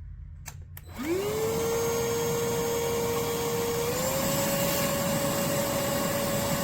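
Cordless stick vacuum cleaner (iwoly C150) switched on after a few clicks. Its motor spins up within a second into a steady whine over a rush of air, and the pitch steps up slightly about three seconds later.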